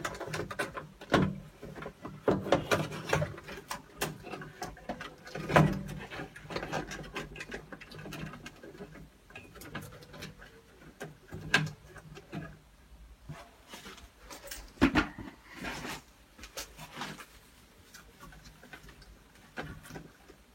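Irregular clicks, knocks and scrapes of hands and tools working on the hydraulic parts inside a combi boiler while the diverter valve is taken out, with a few sharper knocks at intervals.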